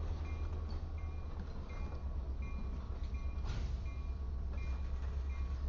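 Freight train cars rolling slowly past with a low steady rumble. A short, high bell-like tone repeats about every 0.7 seconds throughout, and there is a brief hiss about three and a half seconds in.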